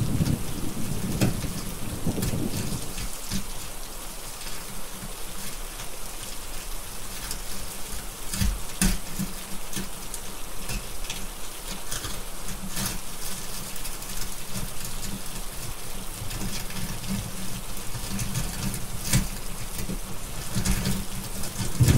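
Steady rain with a deep thunder rumble that dies away in the first few seconds and swells again near the end. Scattered sharp crackles of a fire pop through the rain.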